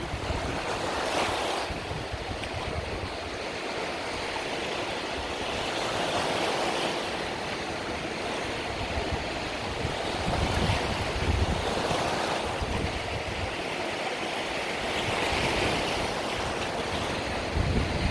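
Mediterranean sea waves breaking gently on the shore, a continuous wash of surf swelling and easing every few seconds, with some wind on the microphone.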